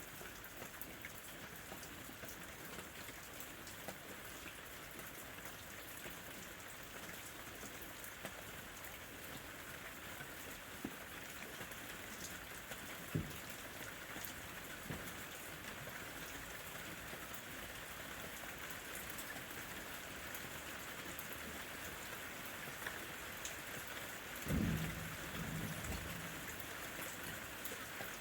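Steady rain falling on lemons, with a few single louder drops and a short deep rumble of distant thunder about 24 seconds in.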